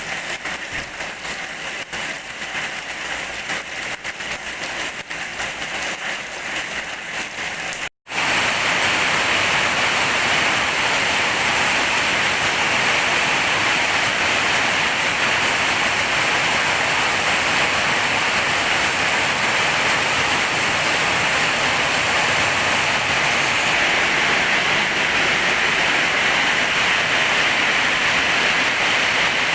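Heavy rain falling steadily. About 8 seconds in it cuts off for a moment and comes back louder and denser.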